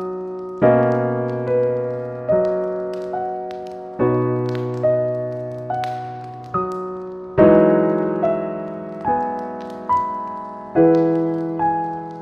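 Slow, gentle solo piano music: a chord struck about every three and a half seconds, with single melody notes between, each note left to ring and fade.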